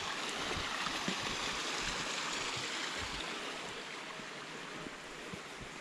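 A stream flowing, a steady rush of water that eases a little in the second half.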